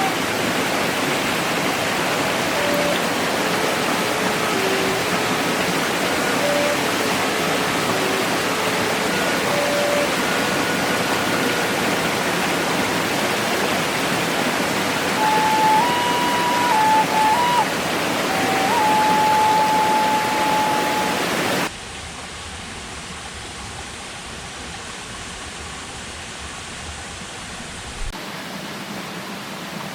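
Steady rushing hiss of water, with a faint slow melody of held notes over it. About two-thirds of the way through it cuts suddenly to a much quieter, softer hiss.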